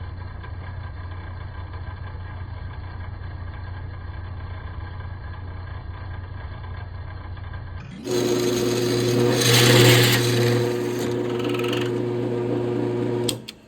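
Drill press running with a steady electric-motor hum; about eight seconds in it turns louder and a bit drills into a metal plate, with a hiss of cutting strongest a second or two later, then stops shortly before the end.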